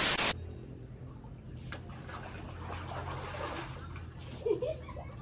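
Water trickling and splashing steadily, with a brief, loud rush of noise right at the start.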